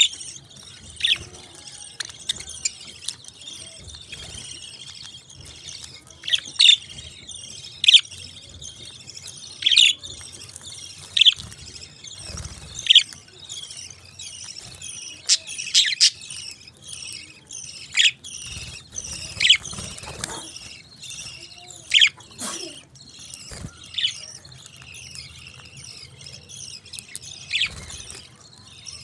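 Parakeets chattering continuously, with loud, sharp chirps standing out every second or two.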